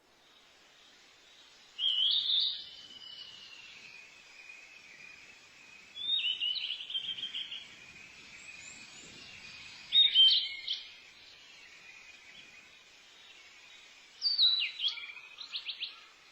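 A songbird singing four short chirping phrases, one about every four seconds, over a steady high background hiss.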